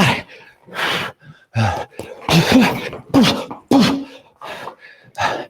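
A person's sharp, forceful exhales and grunts in a steady rhythm, one burst with each punch thrown in a shadow-boxing combination, about eight in all.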